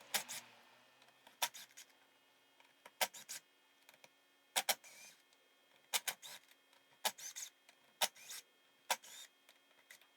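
Sharp metallic clicks and clinks of tools and engine parts being handled and set down, in small clusters about once a second.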